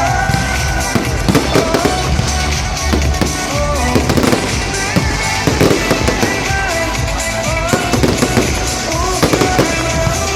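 Fireworks salute bursting and crackling in rapid, irregular bangs, over a music track.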